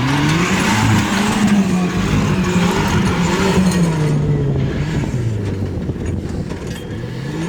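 Off-road vehicle's engine revving: it climbs quickly, holds high for a few seconds, drops back about five seconds in, then climbs again near the end, over rough mechanical noise.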